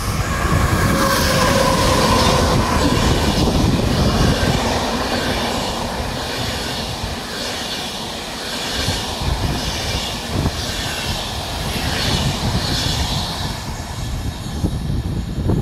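A train passing along the tracks, its wheels rumbling steadily on the rails, with a steady whine that fades over the first few seconds and a hiss that swells and eases roughly once a second.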